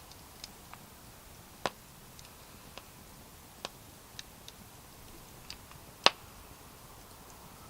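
Wood campfire crackling: irregular sharp pops and snaps over a faint hiss, two loud snaps standing out, one under two seconds in and a louder one about six seconds in.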